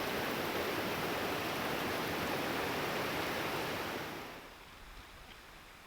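Steady rush of running water that fades away about four seconds in, leaving quiet background with a few faint clicks.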